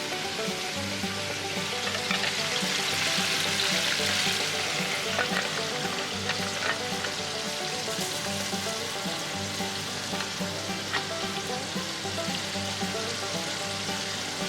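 Chicken pieces deep-frying in hot oil, a steady sizzle with a few small clicks and pops.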